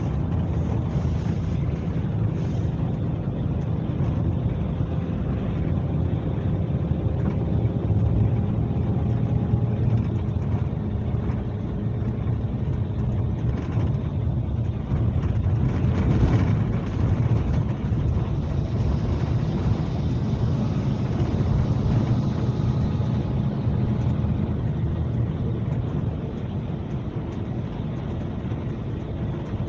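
Scania K370C coach's diesel engine running under way, a steady low drone with a brief louder swell about halfway through.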